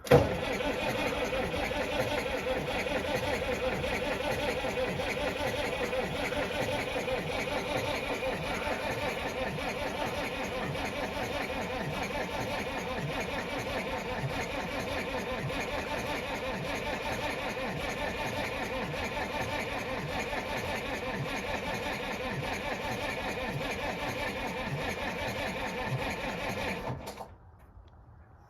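Starter motor cranking a Case 1175 tractor's diesel engine on a cold start. It runs steadily for about 27 seconds without the engine catching, then cuts off suddenly.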